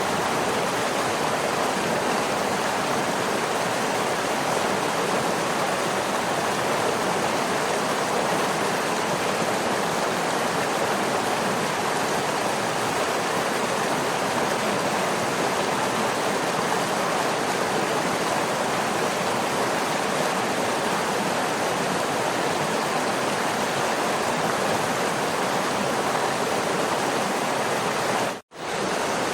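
Waterfall: a steady, even rush of falling water. Near the end it cuts out for a split second and comes straight back.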